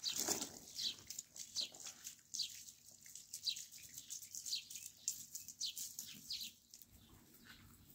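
A songbird chirping repeatedly, a series of short, high notes that fall in pitch, about one or two a second, thinning out near the end.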